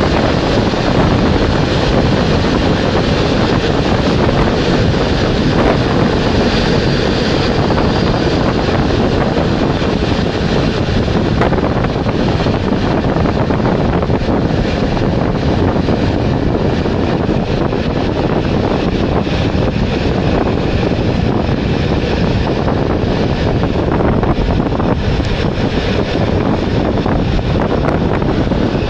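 Wind buffeting the microphone held out of the open window of a passenger train running at speed, mixed with the train's steady running noise. It is loud and continuous, without a break.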